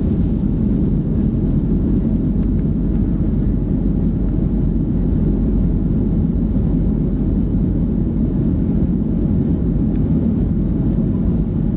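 Steady low rumble of a Boeing 737-300's CFM56 jet engines and rushing air, heard from inside the passenger cabin.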